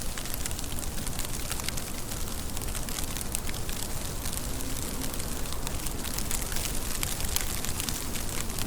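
Steady rain: a dense, even hiss of falling water with many sharp, close drops ticking on a surface.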